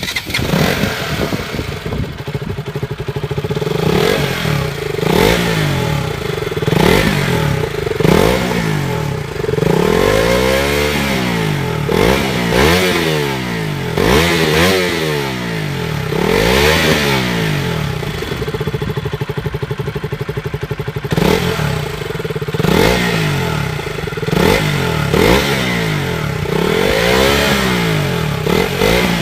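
KTM RC 200's single-cylinder engine and exhaust being revved over and over, the pitch rising and falling every second or two.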